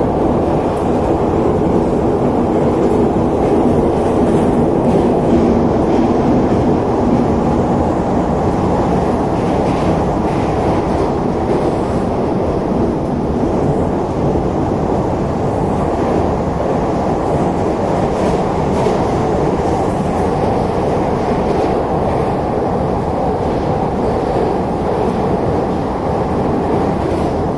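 Heard from inside a Neva metro train running at speed through the tunnel: a loud, steady rumble of wheels and running gear. A steady hum from the drive fades out about eight seconds in.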